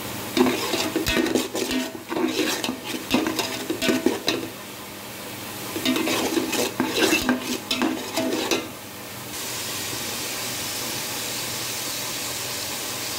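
Onion paste frying in hot refined oil in a steel pot, stirred with a perforated steel spatula: metal scraping and clattering against the pot in two spells, then a steady sizzle over the last few seconds.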